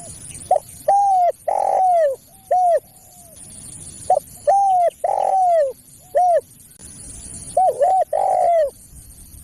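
Spotted dove (tekukur) cooing: repeated phrases of short coo notes that fall in pitch, each phrase with one longer, rougher coo, about three phrases in all with short pauses between. It is a lure call for drawing in spotted doves.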